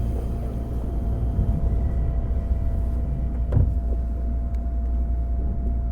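JR 205 series electric train running, heard inside the MoHa 205 motor car with its MT61 externally ventilated traction motors: a steady low rumble with a steady hum, and one sharp knock about three and a half seconds in.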